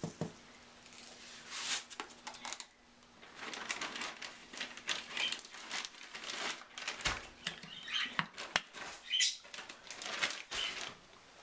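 Irregular clicks, taps and rustling of hands working at an open dishwasher, putting detergent into its dispenser.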